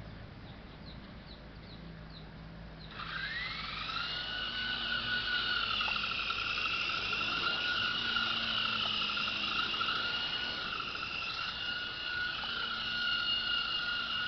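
Small electric motor of a toy RC helicopter spinning up about three seconds in with a rising whine, then running at a steady high-pitched whine that wavers slightly in pitch.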